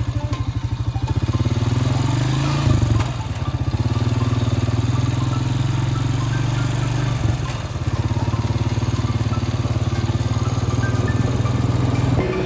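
Off-road motorbike engine running steadily, its revs dipping briefly twice, with music playing over it.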